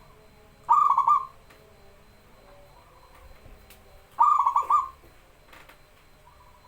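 Zebra dove (perkutut) singing: two phrases of its rapid, pulsed cooing, about three and a half seconds apart.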